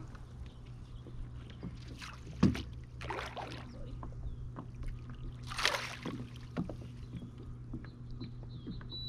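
Splashes on the lake surface in a few short bursts a second or more apart, with a sharp knock about two and a half seconds in, over a steady low hum.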